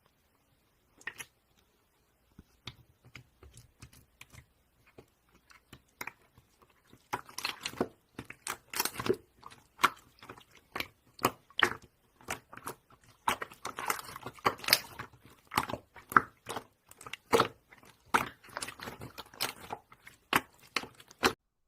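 Close-up crunching and crackling, made of many short irregular clicks. They are sparse at first and turn dense from about seven seconds in, then stop just before the end.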